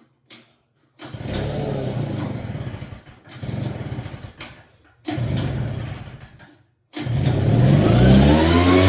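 Gas leaf blower's small engine being started: it fires briefly and dies three times, then catches about seven seconds in and revs up in rising pitch into a steady run.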